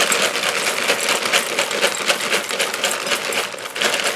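White chocolate chips poured from a bag into a measuring cup: a dense, rapid clatter of many small hard pieces.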